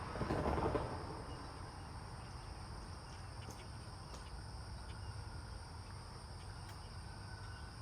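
Insects droning steadily in two high bands over a low steady rumble, with a brief louder rush of noise that swells and fades within the first second.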